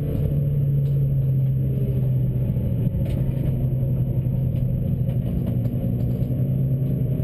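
Suzuki Swift track car's engine running at a steady pitch while driving at speed, heard from inside the roll-caged cabin.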